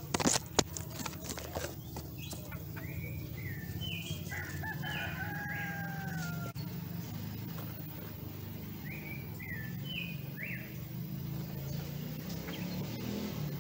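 Birds calling in short, stepped chirps in two runs, with a longer, slightly falling call about five seconds in. A few sharp knocks sound in the first two seconds over a steady low hum.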